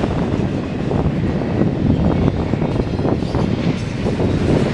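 Double-stack intermodal freight cars rolling past: a loud, steady rumble and clatter of steel wheels on the rails.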